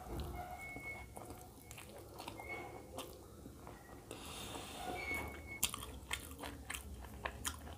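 Close-up chewing and wet mouth sounds of a person eating roti with egg curry, with many small clicks and smacks, growing into sharper lip smacks in the last couple of seconds.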